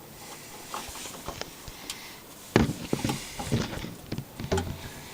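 Scattered clicks and knocks of tools and metal parts being handled, the loudest about two and a half seconds in, followed by a run of lighter taps.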